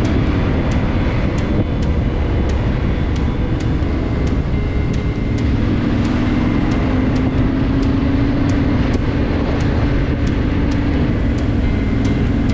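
Motorcycle on the move: the engine runs steadily under a heavy rush of wind and road noise, its pitch rising a little around the middle.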